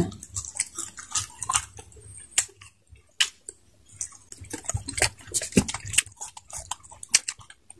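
Close-up wet chewing and lip-smacking of people eating pieces of juicy rock melon, a string of irregular soft clicks and slurps that gets busier about halfway through.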